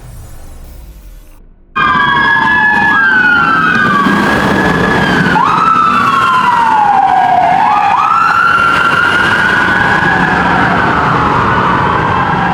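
Several police car sirens wailing at once, their rising and falling tones overlapping, under a steady rumble. They start abruptly about two seconds in, after the faint tail of a music intro.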